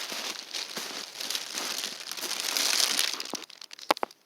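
Crinkling rustle of a synthetic poncho's fabric being moved, dense and continuous, stopping about three and a half seconds in; a few sharp clicks follow near the end.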